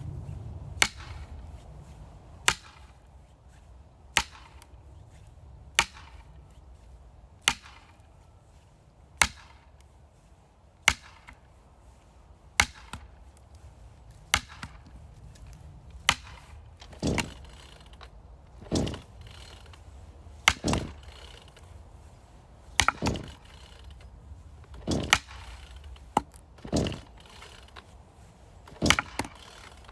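Axe chopping firewood: sharp, evenly spaced strikes about every second and a half. In the second half, several strikes come with a longer, lower crack.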